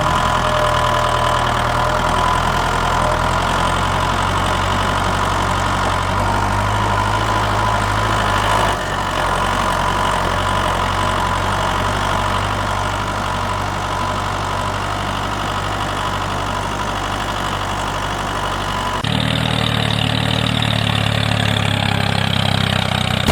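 Tractor-type engine idling steadily, its tone changing abruptly twice.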